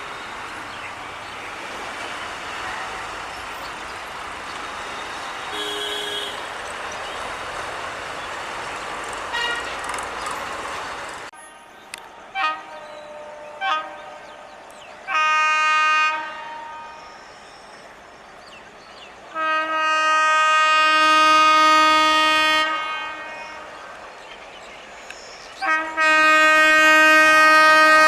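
Steady road-traffic noise for about the first eleven seconds, which stops abruptly. Then a WAP-7 electric locomotive sounds its horn: two short toots, a blast of about a second, a longer blast of about three seconds, another short toot, and a long blast near the end.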